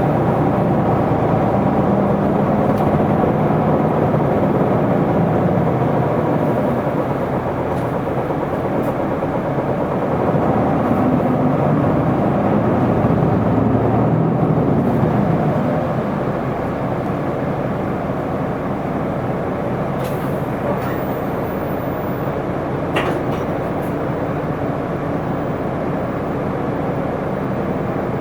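Isuzu Erga city bus's diesel engine heard from inside the cabin while driving. The engine note rises twice as the bus pulls away and accelerates, then eases off to a quieter run about halfway through, with a few faint clicks near the end.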